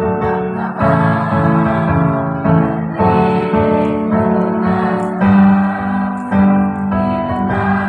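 Music: a keyboard, sounding like an electric piano, plays held chords that change about once a second, accompanying a choir song.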